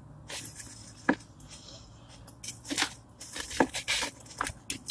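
Close-up chewing and mouth sounds while eating a grilled hot dog: a sharp click about a second in, then a run of short crackly strokes over the second half.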